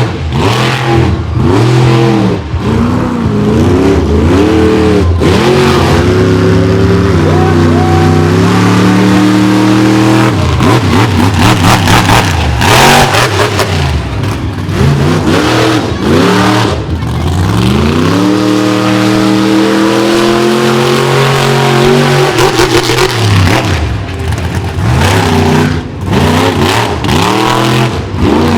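Monster truck engine revving hard again and again, its pitch climbing and dropping with each throttle blip, with bursts of sharp knocks and clatter about ten seconds in and again near the end.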